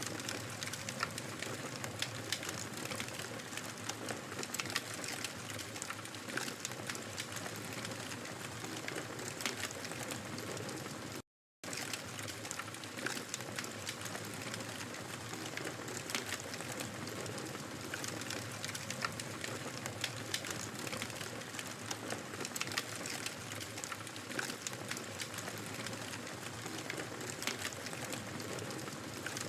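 Wood fire crackling steadily, with frequent small sharp pops and snaps over a soft hiss. The sound cuts out completely for a fraction of a second about eleven seconds in.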